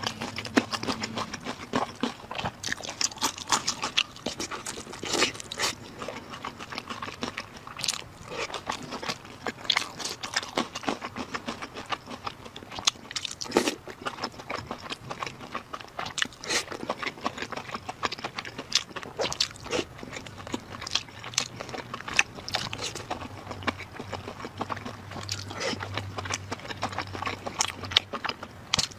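Close-miked eating sounds: a person chewing and biting food, with many short, irregular clicks and smacks.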